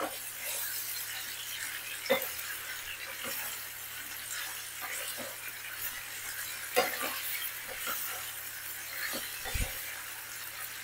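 Chicken pieces sizzling in hot oil on a high flame, with a steady hiss. A wooden spatula turning them knocks and scrapes against the pan a few times.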